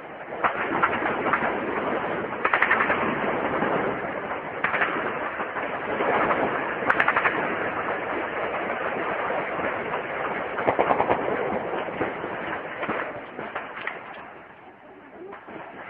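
Repeated bursts of automatic gunfire, each a rapid string of shots, the loudest about 2.5, 7 and 11 seconds in, over a continuous noisy background.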